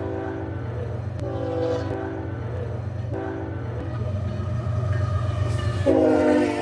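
Train horn sounding a series of blasts, each a chord of several steady tones, over the steady low rumble of a train. One blast ends about half a second in, shorter blasts follow at about 1 s and 3 s, and a louder one starts near the end.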